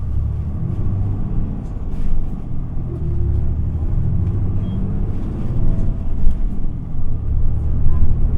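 Isuzu Erga city bus's diesel engine and road rumble heard from inside the cabin while driving, the engine note rising and falling several times as it changes speed.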